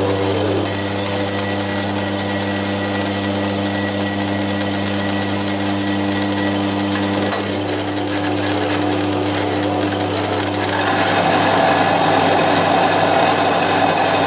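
Milling machine running with a steady electric motor hum. About eleven seconds in, a louder, rougher cutting noise joins as the cutter works the edge of the cast iron bandsaw table.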